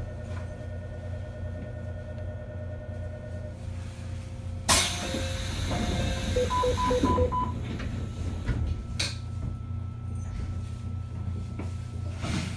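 Electric train standing with its equipment humming steadily. About five seconds in there is a sudden loud burst of compressed-air hiss that dies away, then a short run of two-tone electronic beeps. Two more sharp air releases follow near the end, the sounds of a train readying to depart.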